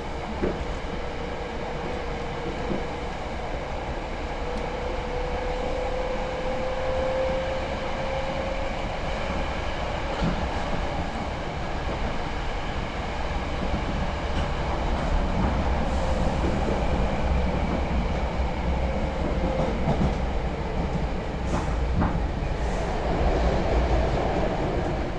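Hankyu 6300 series electric train running between stations, heard from inside the car: a steady rumble of wheels on rail with scattered clicks over rail joints. A faint whine drifts up a little early on.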